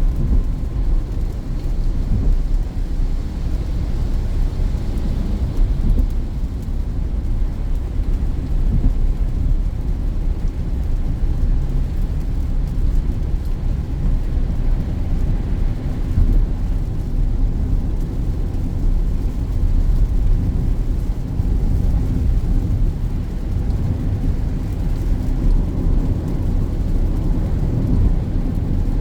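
Steady low rumble inside the cabin of a Peugeot 2008 driving on a wet road in the rain: engine, tyre and road noise.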